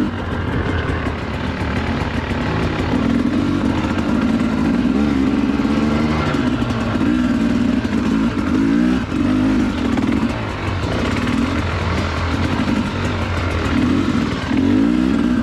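Dirt bike engine under way, revving up and down in repeated short throttle bursts as it rides the trail.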